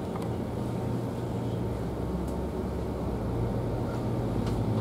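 A public transport vehicle running with a steady low hum.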